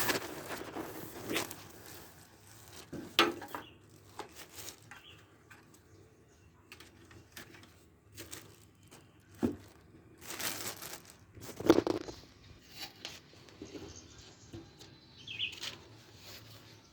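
Packaging being handled: scattered rustling and crinkling with light knocks, in irregular bursts with quiet gaps, the loudest rustle about two-thirds of the way through.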